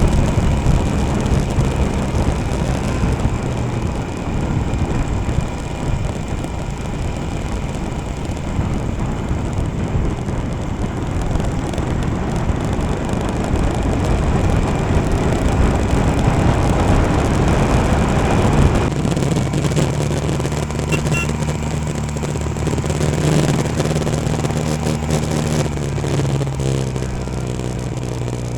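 Royal Enfield Himalayan motorcycle engine running on the ride, with heavy wind and road rumble on the microphone. About two-thirds of the way through the rumble drops and the engine's steady hum comes through clearly.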